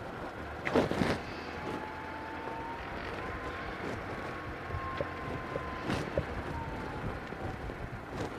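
Mitsubishi Pajero driving slowly along the reserve road, with a steady low rumble and a few knocks, the loudest about a second in. A faint whine rises and then falls slowly in the middle.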